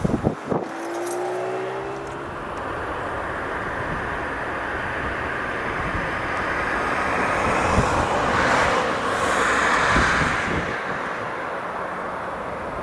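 Rolls-Royce RB211 jet engines of a Boeing 747-200F, a steady rushing roar that swells around the middle and then eases off. A few sharp cracks sound right at the start.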